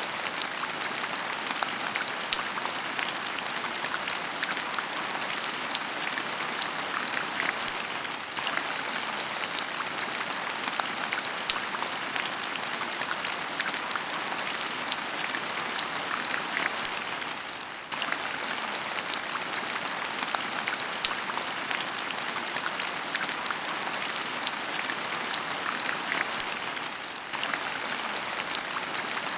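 Heavy rain falling steadily: a dense hiss full of close drop ticks. It briefly dips and picks back up three times, roughly every nine seconds.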